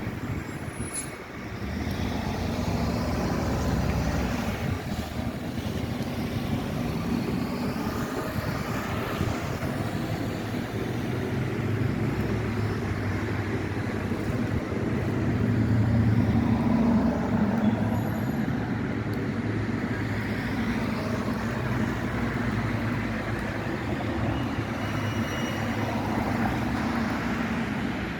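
Zagreb tram running with a steady low rumble, which swells to its loudest about halfway through.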